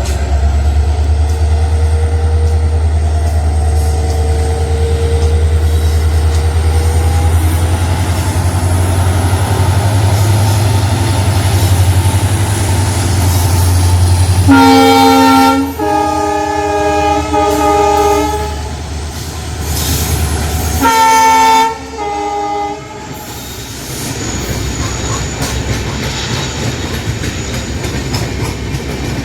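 A Jan Shatabdi express train with LHB coaches: its locomotive runs with a strong, steady low drone, then sounds its multi-tone horn. There are two blasts about fifteen seconds in and two shorter ones about twenty-one seconds in. Afterwards the train runs on with a quieter, steady rush of the passing coaches.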